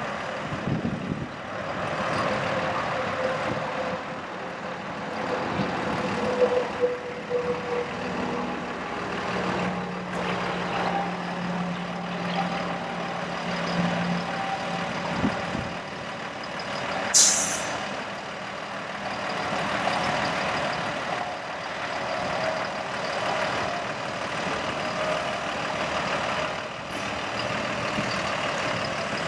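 Freightliner M2 bucket truck running, with a steady hum for a few seconds in the middle. About two-thirds of the way through there is one short, sharp hiss of released air.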